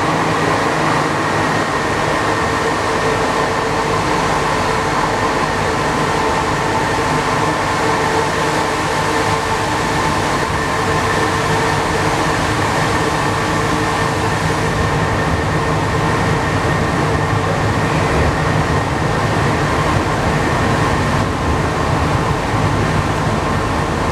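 Alstom NS-93 rubber-tyred metro train running at a steady speed: an even, loud rumble with a steady whine of several tones and no change in pitch.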